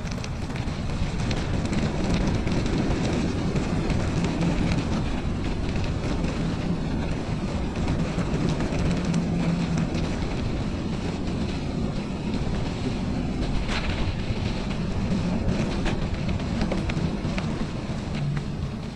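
Wind buffeting the microphone of a camera carried on a moving bicycle: a steady low rumble with a few faint clicks and rattles.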